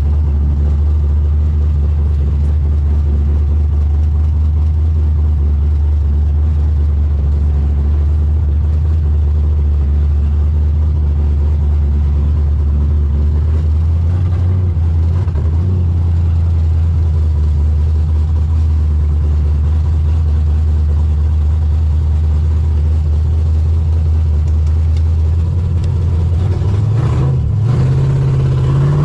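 1984 Fox Body Mustang drag car's engine, fed by an oversized 878 CFM carburetor, running low and steady at just above idle while the car is moved after a cold start. The note shifts about halfway through and rises with a rev near the end.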